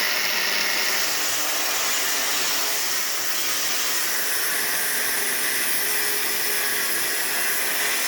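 Steady whirring machine noise with a strong hiss, running evenly without strikes or breaks.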